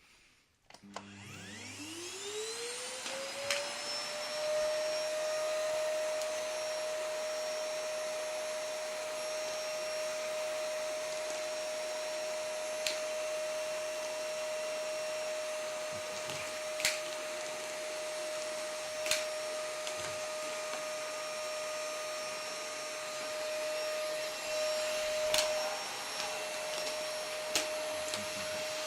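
Vacuum cleaner switched on about a second in: its motor whine rises over two or three seconds, then runs steadily. A few sharp clicks or knocks sound over the running motor.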